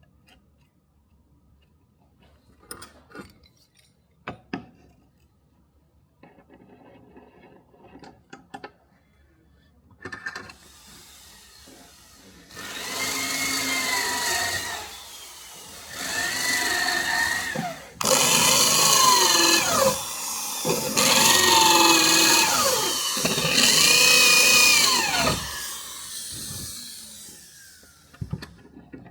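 An electric power tool runs in about five bursts over the second half, its whine dropping in pitch during each run. Before that come a few light clicks and knocks.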